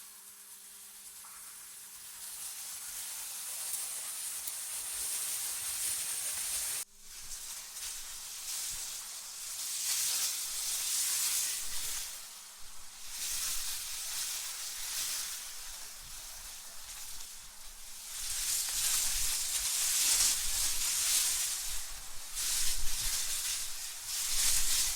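AI-generated wind: a high hiss that swells and fades in gusts, with a sudden break about seven seconds in.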